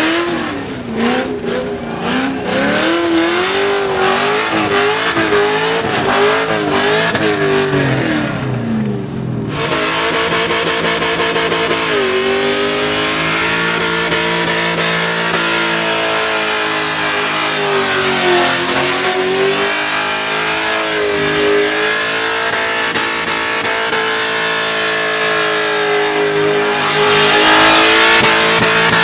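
Supercharged Holden Commodore ute engine revving hard during a burnout, held at high revs with the pitch wavering up and down as the throttle is worked, while the rear tyres spin and smoke. The sound changes abruptly about nine seconds in, then runs at a steadier high pitch.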